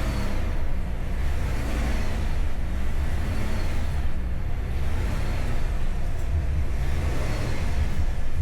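Chevrolet Tahoe's V8 engine running at low speed as the SUV creeps through a tight turn, a steady low rumble.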